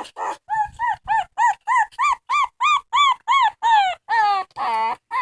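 A dog whining in a quick series of short, high cries that rise and fall in pitch, about three a second, then two longer drawn-out whines near the end.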